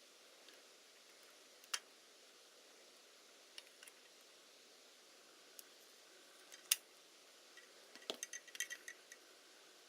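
Small tools and parts being handled at a workbench: scattered light clicks and taps over faint hiss, with a quick flurry of clicks near the end.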